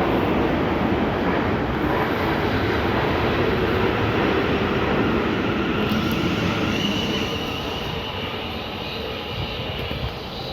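Electric train running through the station, a loud steady rumble that fades from about seven seconds in as it moves away. A thin high whine rises out of it near the end.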